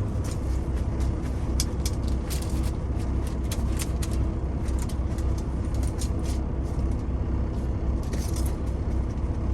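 Steady low drone of a truck engine idling, with scattered short clicks and rustles of food being handled and cut.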